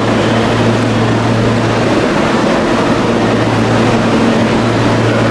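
Electric commuter train in an underground station: a loud, steady rumble with a low hum. The hum fades out about two seconds in and comes back near the end.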